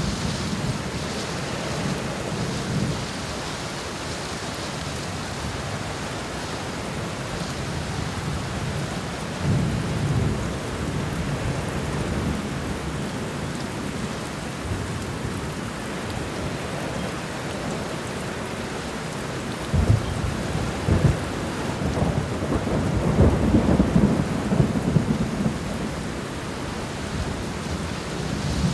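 Thunderstorm: steady heavy rain with low rolling thunder. A few short rumbles come early on and about a third of the way in, and a louder, longer roll with sharp cracks comes about two-thirds of the way through.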